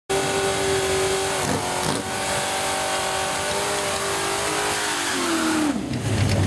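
Drag car's engine held at high revs through a burnout, one steady loud note with the rear tyres spinning in smoke. About five seconds in, the pitch drops as the throttle comes off and it settles into a lower, rougher rumble.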